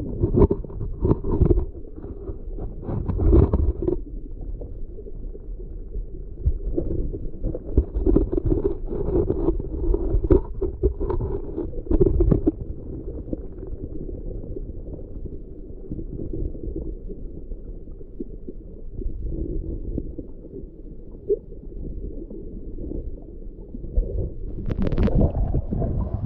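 Muffled low water sounds: rumbling and gurgling sea water with irregular surges, dull and cut off at the top as when the microphone is underwater.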